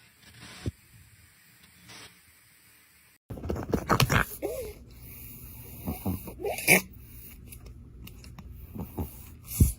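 A pet animal making short vocal sounds, mixed with a few sharp noises, starting abruptly about three seconds in after a near-quiet stretch.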